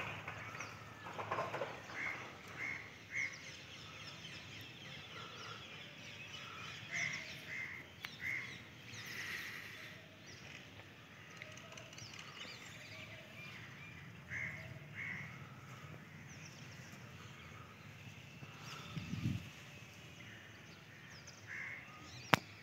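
Birds calling in the open: short calls in runs of two or three, repeated every few seconds over a steady outdoor background. A single sharp click near the end.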